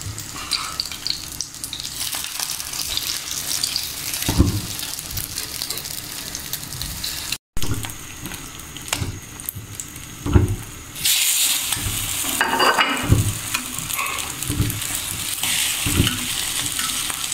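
Egg-dipped bread slices sizzling in hot oil on a flat griddle pan, a steady hiss that grows louder about eleven seconds in. Now and then a knife or spatula knocks and scrapes against the pan as the slices are turned.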